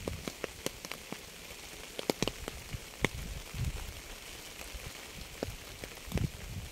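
Steady rain hissing, with single drops tapping sharply close by, a cluster of them about two seconds in. A low rumble swells and fades a few times.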